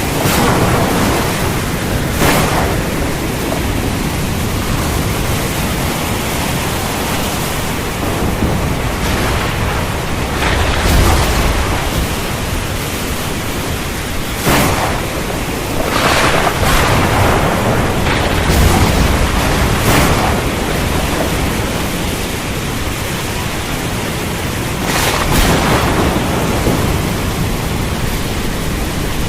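Thunderstorm: steady, heavy rain hiss with several sudden sharp cracks of thunder spread through, some followed by deep rumbling.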